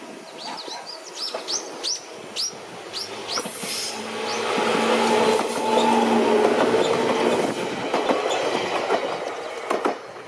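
A Jōshin Electric Railway electric train rolling past close by through the passing loop: a string of short high chirps over the first few seconds, then a loud rumble with a steady motor hum that peaks midway, and a few sharp clicks of wheels over rail joints near the end.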